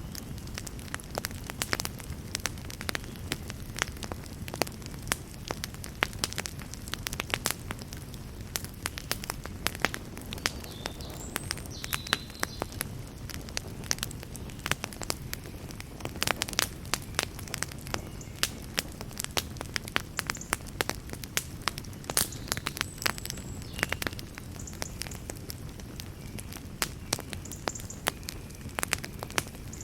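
Wood fire burning in a fireplace: a steady low rumble of flames with frequent sharp, irregular crackles and pops, and a few faint brief hisses.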